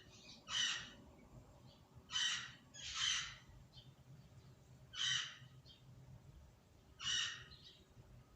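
A crow cawing: five loud, harsh caws spaced unevenly, the second and third close together, with fainter answering calls from another bird between them.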